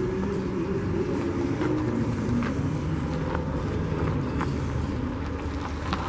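Steady low rumble of car engines running, with a few faint ticks.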